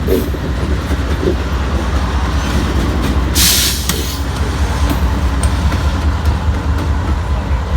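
Freight train cars rolling past at close range with a steady, loud rumble of wheels on rail. A brief hiss cuts in about three and a half seconds in.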